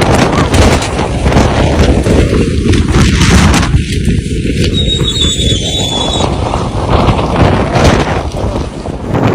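Strong storm wind gusting against a phone's microphone: a loud, continuous rush with many sharp crackling knocks.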